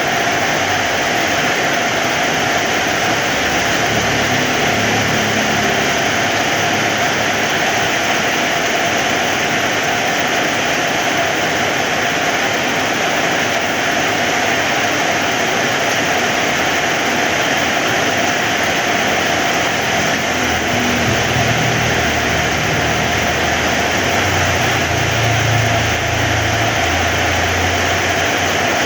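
Heavy rain falling in a steady, dense hiss, with a low rumble that swells twice, briefly early on and for several seconds in the second half.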